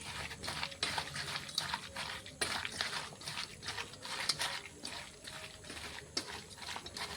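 Pieces of boiled chicken being mixed with spices and ginger-garlic-chili paste in a bowl, with irregular clicks and knocks several times a second.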